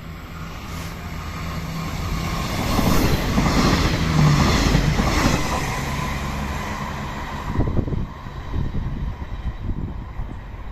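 A train passing by on the rails, building to its loudest a few seconds in and then fading, with a run of sharp wheel clicks over the rail joints near the end.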